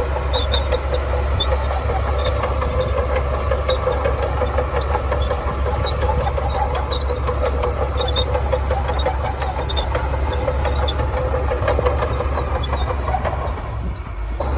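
Heavy diesel engine of a Shantui bulldozer running steadily under work, a deep rumble with faint high-pitched clicks scattered through it. It dips briefly just before the end.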